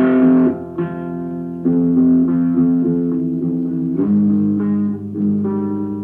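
Lo-fi black metal guitar music: slow, held guitar chords that change every second or two, with a bass line under them.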